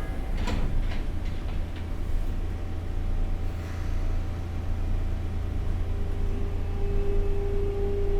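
Sotetsu 8000 series EMU standing at the platform with a steady low hum. About half a second in there are a few sharp knocks, fitting the sliding doors closing. About six seconds in a steady whine starts: the Hitachi GTO-VVVF inverter powering up as the train begins to pull away.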